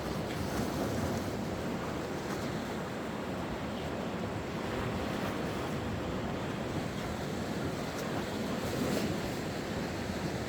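Mediterranean sea waves washing onto the shore, a steady rush of surf that swells a little near the end.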